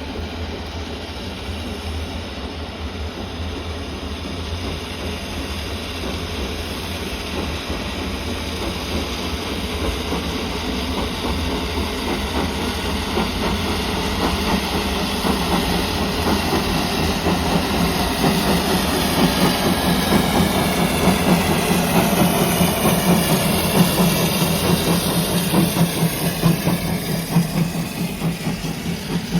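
Steam-hauled train on the move, its rumble and hiss growing steadily louder as it draws near.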